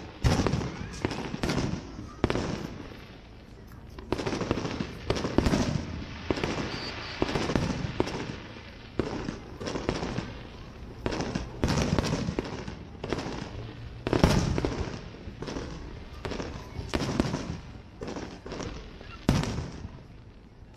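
Aerial firework shells bursting: a dense, irregular run of bangs, each trailing off in echo, with a short lull about three to four seconds in.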